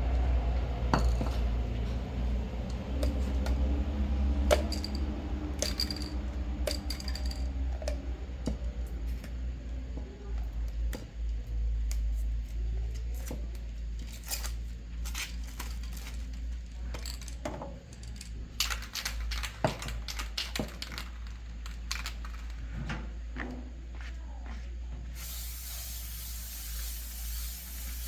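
Small metal parts clinking and tapping as they are handled, over a steady low hum. A steady spray hiss starts a few seconds before the end.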